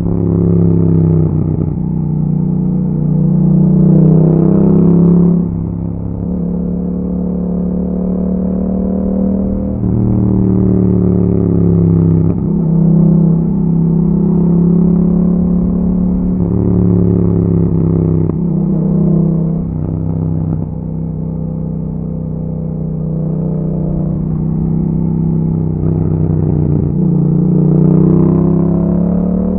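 2021 Yamaha MT-07's 689 cc parallel-twin engine through an Akrapovic exhaust, riding under way. The revs climb and fall back over and over as it accelerates, changes gear and rolls off.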